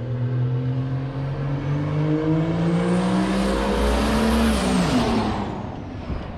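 OM606 straight-six turbodiesel in a Renault Master van accelerating hard, its engine note and a high whine climbing steadily for about four and a half seconds, then dropping sharply as it passes by.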